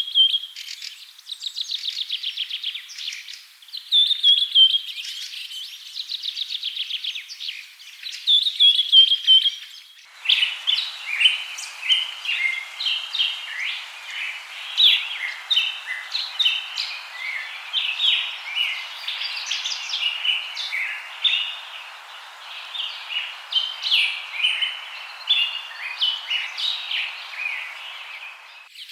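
Birds calling: rapid trills repeated in bouts every couple of seconds, then about ten seconds in the sound switches abruptly to a busy chorus of many birds chirping over a steady hiss.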